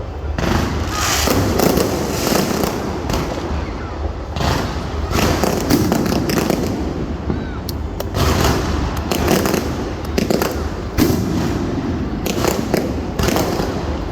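Aerial fireworks going off in quick succession: repeated bangs and crackling shell bursts over a continuous low rumble.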